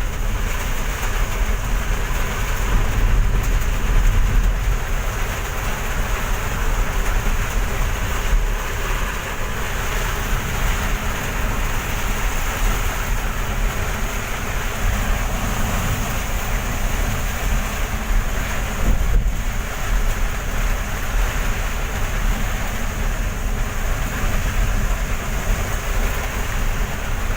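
Heavy rain pouring down steadily, with a continuous low rumble underneath.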